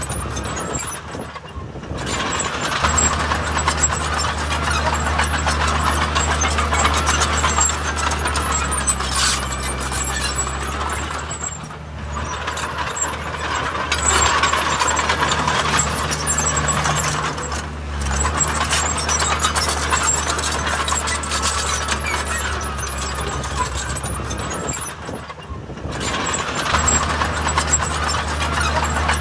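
Heavy diesel earthmoving machinery working: engines running steadily under load with continuous metallic rattling and clanking, the engine note easing off briefly about four times.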